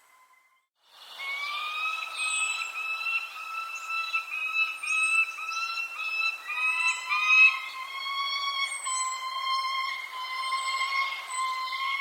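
Small birds chirping in short, high, falling notes over long, steady whistling tones that hold for several seconds at a time. The sound drops out for about a second at the start.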